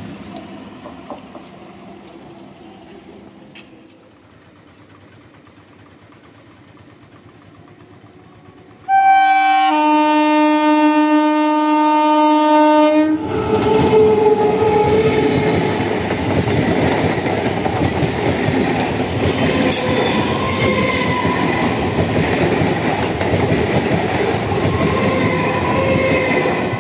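EMU local train: a quieter rumble for the first several seconds, then about nine seconds in a single horn blast lasting about four seconds. The train then passes close by with loud, continuous wheel clatter over the rails.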